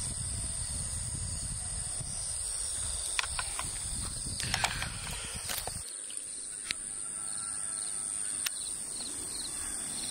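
Insects keep up a steady, high-pitched drone. A low rumbling noise underneath cuts off about six seconds in, and a few sharp clicks fall around the middle.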